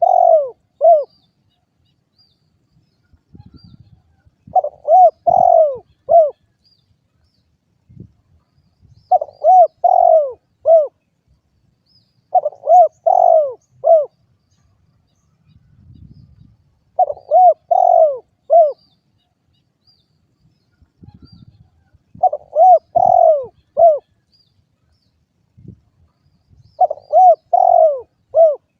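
Spotted dove (derkuku) cooing: phrases of three or four short coos, repeated about every four seconds.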